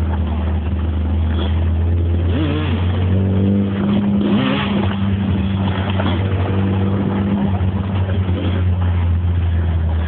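Cross car engine running with a steady, deep drone while towing. A second, higher engine note rises and falls a couple of seconds in and again about two-thirds of the way through.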